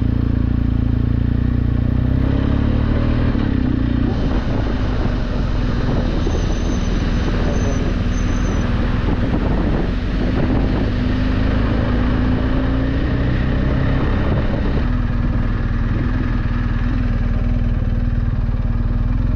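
BMW adventure motorcycle engine running steadily while riding at an even speed, with strong wind noise on the microphone.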